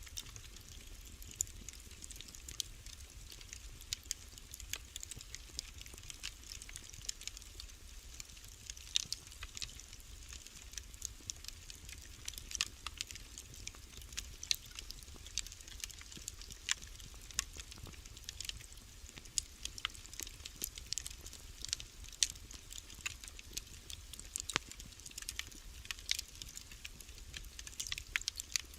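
Wood fire in a fireplace crackling: irregular sharp pops and snaps, several a second, over a faint low rumble.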